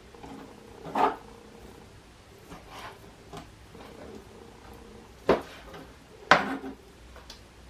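Kitchen knife cutting raw chicken breast into chunks on a cutting board: a few sharp knocks of the blade against the board, about a second in and twice more near the end, with lighter taps between.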